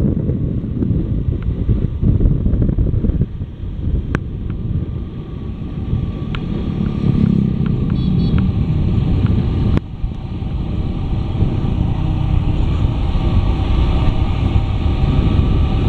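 Motorcycle under way on the road, its engine running steadily beneath a heavy low rumble of wind and road noise, with a few sharp clicks and a brief dip in loudness about ten seconds in.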